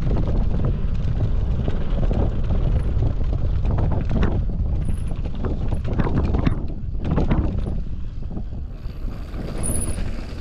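Mountain bike ridden fast down a dirt trail: wind rushing over the microphone, with the tyres on dirt and the bike clattering and knocking over bumps several times.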